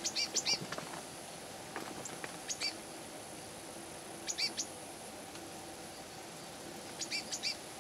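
A small bird chirping in four short bursts of quick high notes, a couple of seconds apart, over a faint steady background hum.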